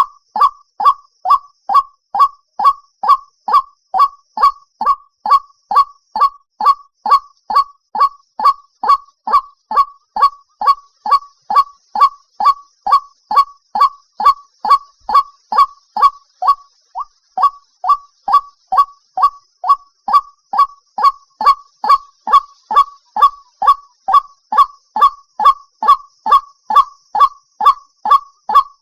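White-breasted waterhen giving its monotonous repeated call: short, clipped, honk-like notes about two a second, with one brief break about two-thirds through. This is a lure recording meant to draw waterhens to a trap.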